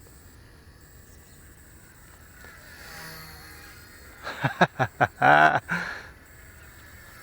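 Small electric RC helicopter's motor and rotors whining faintly in flight. About four seconds in, a loud call cuts across it: a quick run of four or five short cries, then one longer one.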